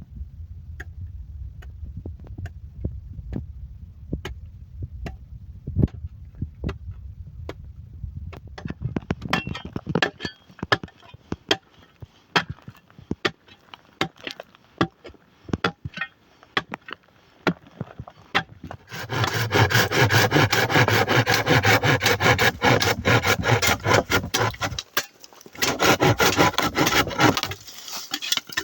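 Scraping and rubbing on wood, with scattered knocks and clicks. It grows busier partway through, then turns into two loud stretches of rapid, continuous scraping near the end.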